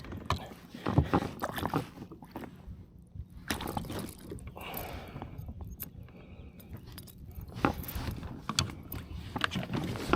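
Irregular knocks, clicks and rattles of gear being handled in a kayak.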